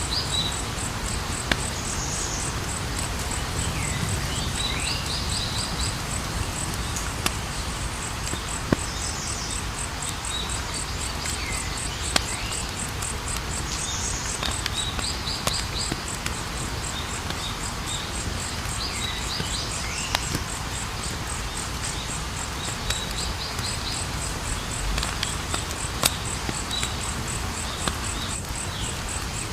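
Campfire burning with a low steady hiss and a sharp crackling pop every few seconds, while insects keep up a continuous high, pulsing trill and short chirping calls repeat every few seconds.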